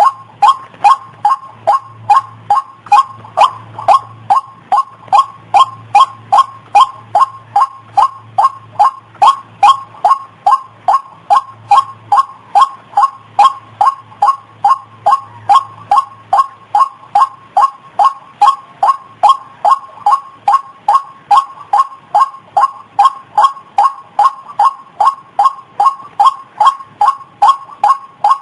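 White-breasted waterhen (ruak-ruak) calling: an unbroken series of short, sharp notes, about two and a half a second, at a steady pace. It is the repeated call used as a lure recording to draw waterhens in.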